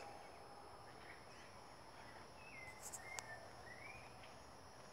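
Faint, distant bird calls over a quiet background: a few short gliding notes about halfway through, and a single sharp click a little later.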